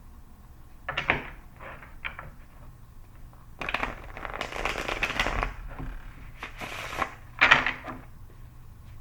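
Tarot cards being handled and shuffled: a few short flicks of the deck, a longer shuffle of about two seconds in the middle, and two more sharp flicks near the end.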